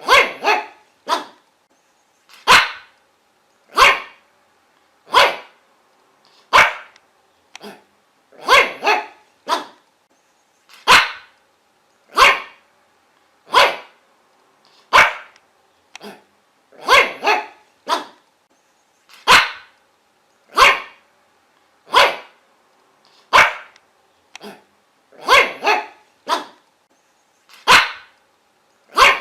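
A dog barking over and over, about one bark every second and a half, some coming in quick pairs, over a faint steady hum.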